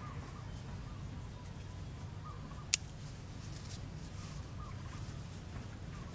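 A bird giving short, curling calls again and again over a steady low rumble, with a single sharp click nearly three seconds in.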